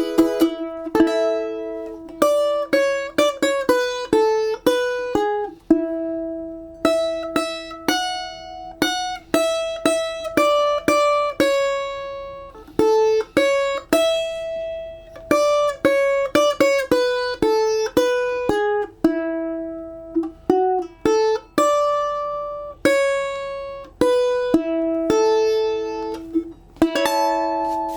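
Solo balalaika playing a slow, lyrical melody, single plucked notes ringing and dying away, with a few quick runs of notes between them.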